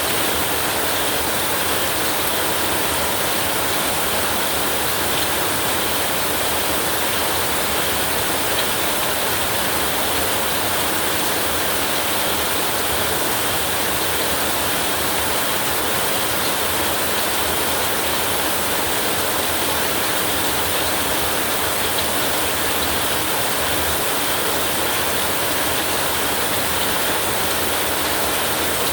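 Heavy rain falling steadily and evenly, with no thunder or other sudden sounds.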